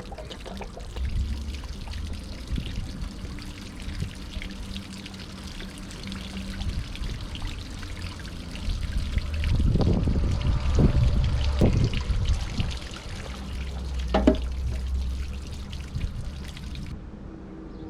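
Water pouring and trickling out of the open anode port of an RV water heater tank once the old anode rod is out, with a few louder knocks around the middle.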